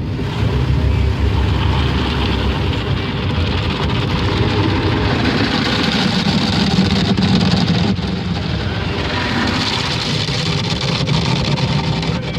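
Automatic car wash equipment running: a loud, steady rushing noise with a low rumble and faint machine hum underneath.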